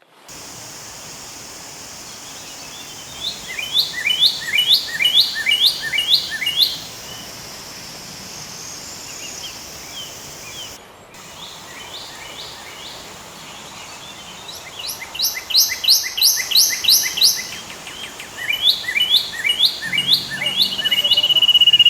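A bird calling in three runs of quick, repeated chirps, each run about a dozen notes long, over a steady background hiss.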